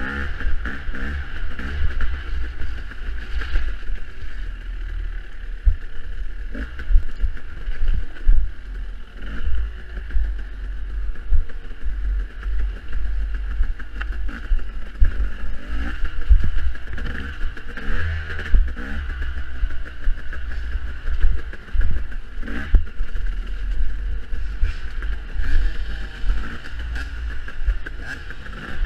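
Dirt bike engine revving up and falling back again and again while riding an off-road race course, with wind rumbling on the microphone and frequent knocks and clatter from bumps.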